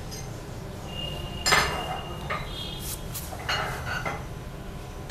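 Metal spoon clinking and tapping against a bowl while spices are spooned in, a few sharp clinks with the loudest about one and a half seconds in and a brief ringing tone.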